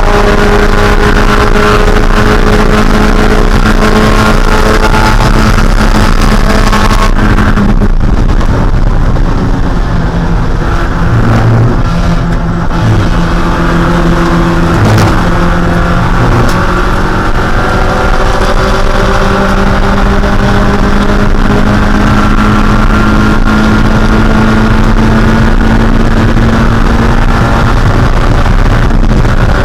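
Spec Miata's 1.6-litre four-cylinder engine running hard at racing speed, under heavy noise. Its note drops about eight seconds in and turns a little quieter for a few seconds, then climbs slowly over a long stretch before dropping again near the end.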